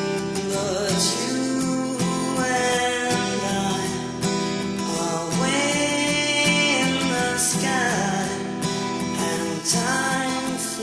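Recorded song: strummed acoustic guitar with a sung vocal line gliding over it.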